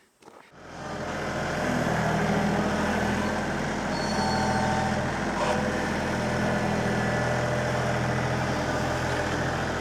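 Tractor diesel engine running steadily, fading in about half a second in.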